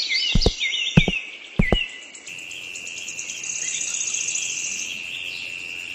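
Several short chirps and a few sharp knocks in the first two seconds, then a steady high insect trill, like crickets, for the rest.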